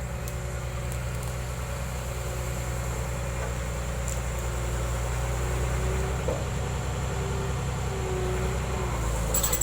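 Heavy construction machine's engine running steadily at a low, even pitch, slowly growing louder.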